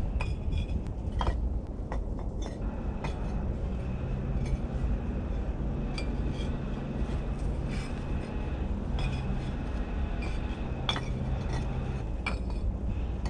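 Bricks clinking against each other as they are handled and set in place: a dozen or so sharp, irregular clinks, over a low steady rumble.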